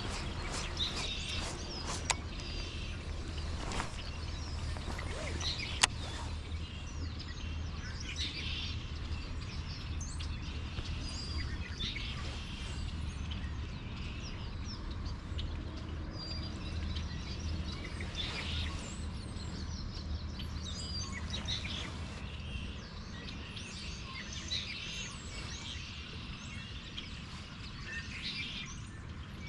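Birds chirping again and again over a steady low rumble, with two sharp clicks about two and six seconds in.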